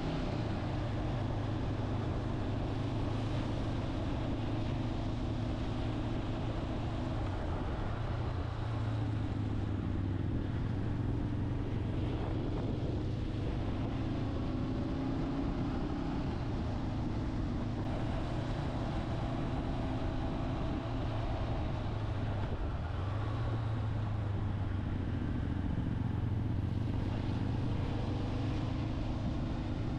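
Motorcycle engine running steadily on the move, its note shifting a little in pitch now and then, over a continuous rushing noise.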